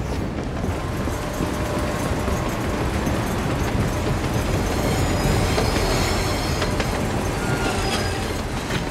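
Passenger train running at speed: a dense, steady rumble and clatter of wheels on rails, a little louder in the middle, with thin high wheel squeals in the second half.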